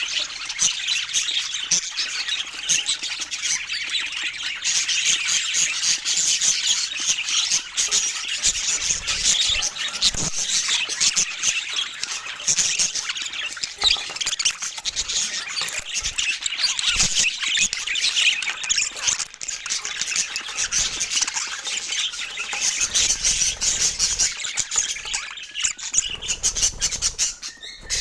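Parakeets chattering and squawking without a break: a dense, continuous mix of high chirps and calls.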